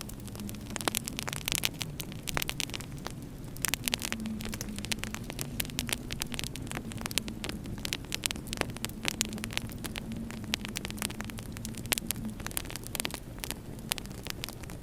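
Wood fire crackling in a fireplace, with many irregular sharp pops, over a low, wavering steady hum.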